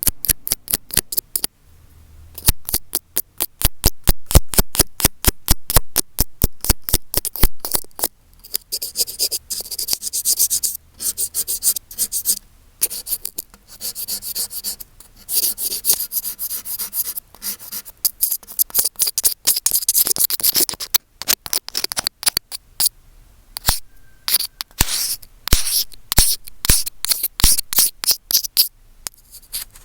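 Fingers working directly on an earphone microphone: fast runs of sharp taps and strokes, several a second, alternating with rough scratching and rubbing across the mic.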